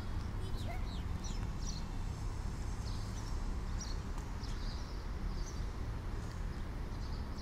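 Small birds chirping, short high calls repeated every second or so, over a steady low rumble.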